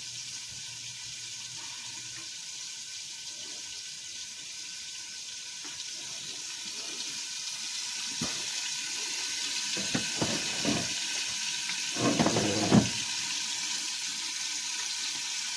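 Chicken liver frying in olive oil in a pan: a steady sizzle that grows louder in the second half, with a few clicks and a louder clatter about twelve seconds in.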